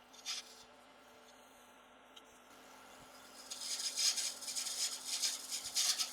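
A lathe tool cutting a spinning acrylic resin pen blank: a hissing scrape that starts about halfway through, comes in uneven surges, and stops near the end.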